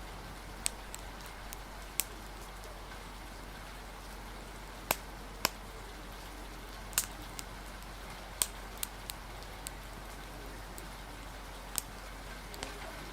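Wood fire crackling, with a dozen or so sharp, irregularly spaced pops, over a steady hiss of rain.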